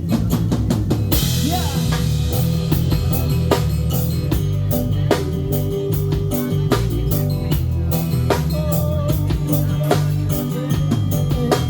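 Live band playing the instrumental intro of a song: drum kit with kick and snare over a steady bass line, with a cymbal crash about a second in.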